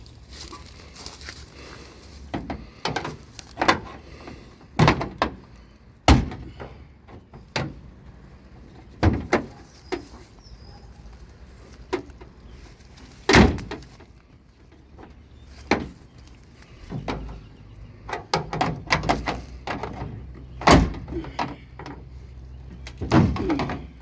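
Pry bars levering at a bent car door. The door metal clanks and knocks in a dozen or more irregular sharp strokes, some single and some in quick clusters, as it is forced and worked on its latch.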